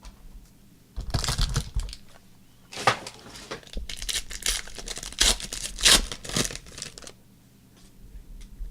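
Trading card pack wrapper being torn open and crinkled, in a short burst about a second in and a longer stretch of tearing and rustling from about three to seven seconds in.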